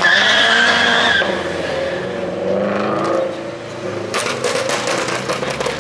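A car's tyres squeal steadily for about a second, then its engine revs, rising and falling in pitch. From about four seconds in comes a quick run of sharp pops.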